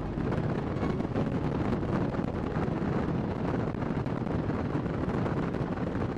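Wind rushing over the microphone, with a Kawasaki Vulcan 1600 Nomad's V-twin engine running steadily under it while the motorcycle cruises.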